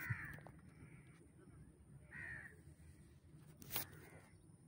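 Faint cawing bird calls, twice about two seconds apart, and a single sharp click a little before the end.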